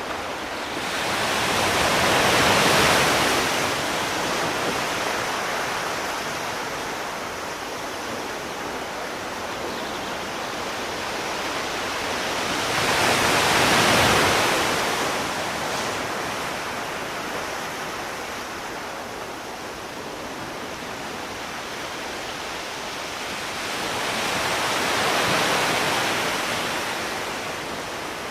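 Sea waves washing onto a shore, three slow swells about eleven seconds apart, each rising and falling back into a steady wash of surf.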